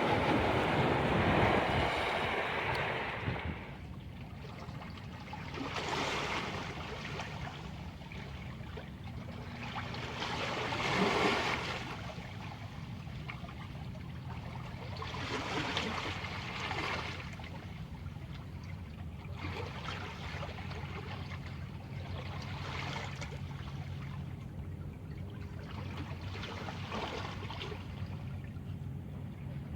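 Black Sea waves washing onto the shore and drawing back, rising and falling in swells every few seconds over a steady wash of surf. The loudest surges come at the start and about eleven seconds in.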